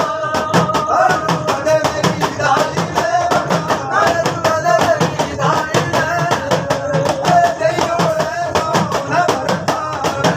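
Folk singing party performing: a male singer's melody over instrumental accompaniment, with percussion keeping a fast steady beat throughout.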